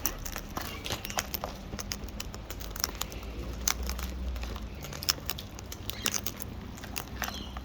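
Parrots cracking and crunching seed, with many irregular sharp clicks from beaks on husks and the seed container.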